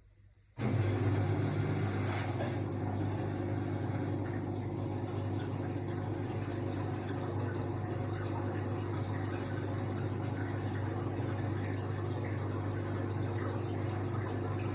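AEG Lavamat L62850L washing machine switching on about half a second in, then running with a steady hum and a rushing noise over it.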